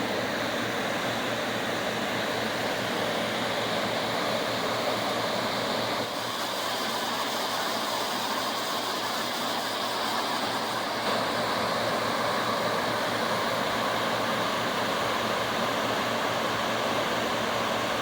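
Waterfall rushing: a steady, loud hiss of falling water, with small shifts in level about 6 and 11 seconds in.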